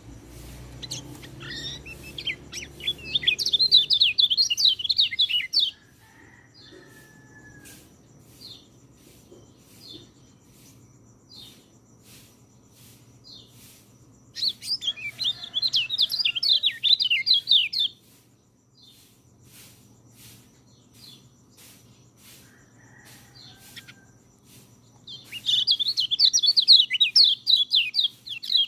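Orange-headed thrush singing: three bursts of rapid, varied high warbling phrases, each a few seconds long, with scattered short call notes in the pauses between.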